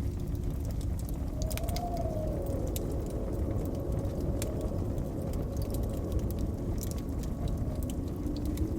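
Blizzard wind rumbling low and howling with a faint pitch that slowly rises and falls, over the sharp, irregular crackle and pop of a wood fire.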